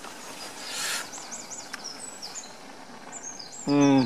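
Small woodland birds chirping in quick high repeated notes over a steady outdoor background. Near the end a man's voice sounds briefly and loudly.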